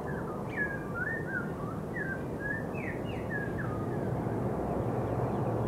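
Small birds chirping in a quick run of short, mostly falling notes that stop about three and a half seconds in, over a steady low outdoor rumble that grows slightly louder near the end.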